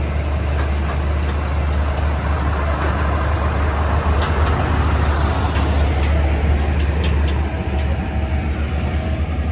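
Backhoe's diesel engine running steadily at a constant low hum, with a few short sharp clicks in the second half.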